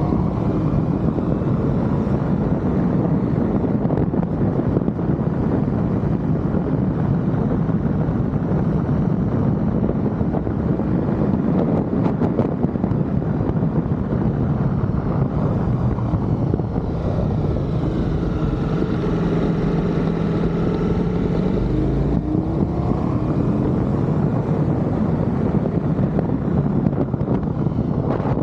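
Ducati Multistrada V4 motorcycle's V4 engine running while riding, its note rising and falling with the throttle. Wind rushes over the microphone throughout.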